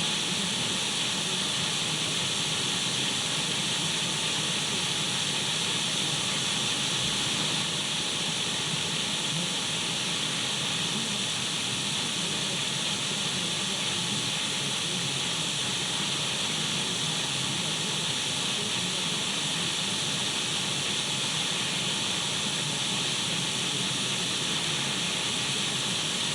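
Untuned radio static: a steady, even hiss with a bright, high edge.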